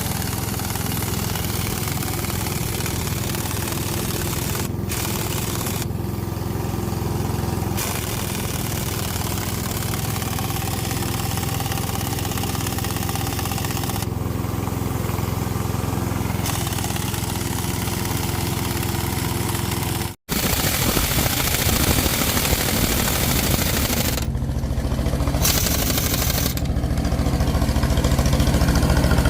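An engine running steadily. The sound cuts out for an instant about twenty seconds in, then carries on a little louder.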